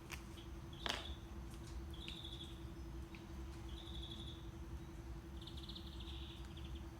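Short, high bird chirps from a nature-sound recording, a few spaced calls a second or two apart, over steady low brown noise with a faint hum. A single sharp click about a second in.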